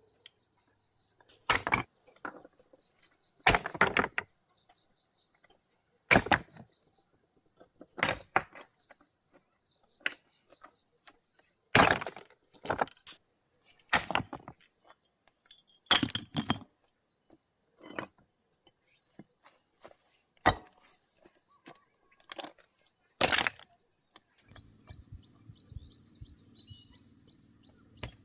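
Heavy hand-tool blows on stone, about one strike every two seconds, some landing in quick pairs, as rock is broken for an embankment. Near the end a high, rapidly pulsing chirring starts up.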